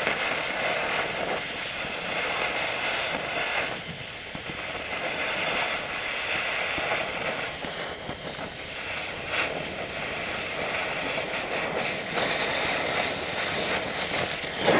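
Oxyacetylene cutting torch cutting through 1-inch-thick steel plate: a steady, uneven hissing roar of the cutting jet, with a few short crackles.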